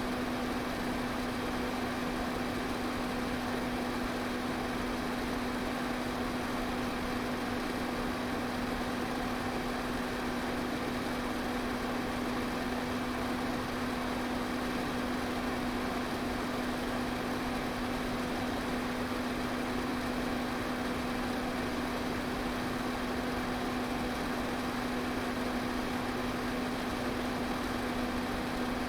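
Pedestal fan running steadily: an even rush of air with a constant low motor hum underneath.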